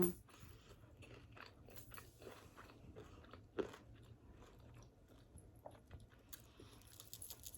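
Close-miked chewing of a mouthful of pizza: faint, wet crunching with many small clicks, and one louder crunch about three and a half seconds in.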